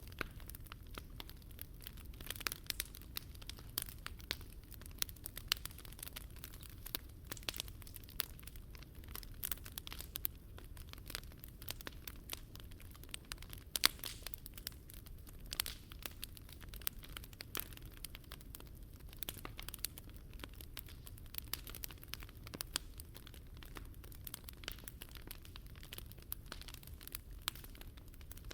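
Wood fire crackling, with irregular sharp pops over a steady low rumble; one louder pop about halfway through.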